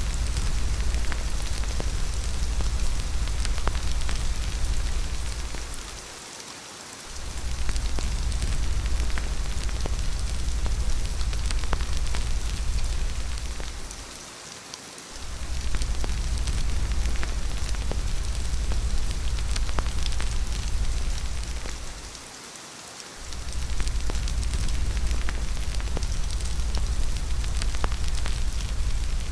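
Steady rain with scattered fine ticks of drops, over a deep low rumble that drops out for about a second roughly every eight seconds, like a looped ambience track.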